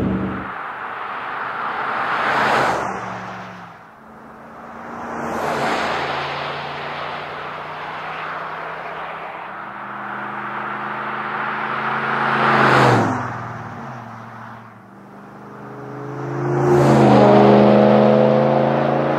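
A RAM 1500's 5.7L Hemi V8 running through a Flowmaster American Thunder cat-back exhaust with a 50 Series muffler, driving past about four times. Each pass swells and then fades, with the engine note shifting in pitch as it goes by; the last two passes are the loudest.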